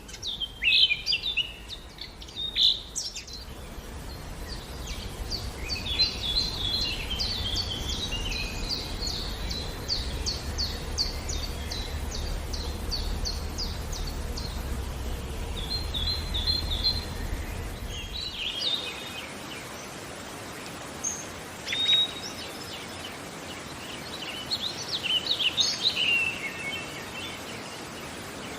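Birds chirping and calling. A fast run of short, repeated chirps fills the first half, and scattered calls follow, over a low background rumble that cuts off abruptly about two-thirds of the way through.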